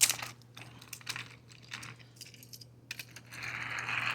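Plastic toy train engines being handled and pulled apart: a series of small clicks and knocks, the loudest at the very start, with a short scrape of plastic near the end.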